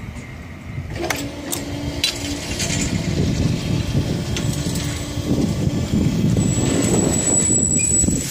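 A train passing a railway level crossing. Its rumble grows steadily louder, and a sharp clack about a second in starts a steady hum that lasts a few seconds. A thin high-pitched whine comes near the end.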